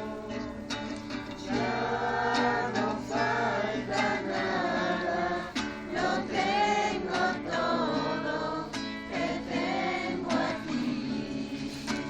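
A group of voices singing a song together, with an acoustic guitar strummed along.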